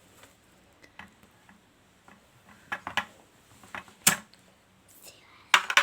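Kitchenware being handled: scattered light clicks and knocks, the sharpest about four seconds in and a quick cluster of knocks near the end.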